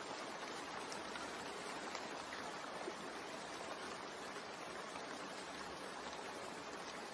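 Steady rain ambience: an even, continuous hiss of falling rain.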